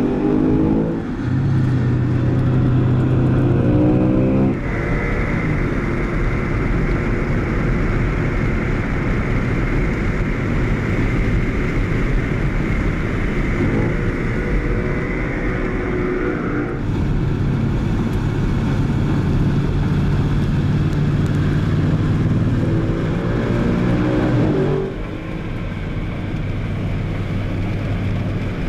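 Audi RS4 Avant's 4.2-litre FSI V8 engine running hard at speed, its revs climbing and dropping through gear changes, with a long steady stretch in the middle. The tone changes abruptly a few times.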